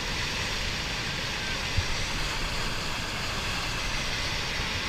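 Steady, unbroken rushing roar of a landslide coming down beside a mountain stream, the rumble that sounds like an airplane passing overhead. A single low thump about two seconds in.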